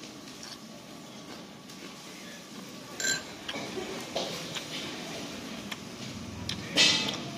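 A person chewing and eating, with mouth noises over a low background, and two short sharp noises: one about three seconds in and a louder one near the end.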